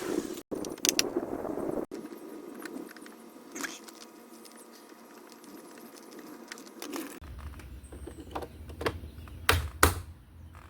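Scattered clicks and knocks of a car door panel and its parts being handled and fitted back on, in short cut-together clips. A low steady hum comes in about seven seconds in.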